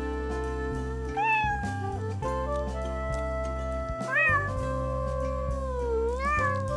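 A cat meowing three times over steady background music.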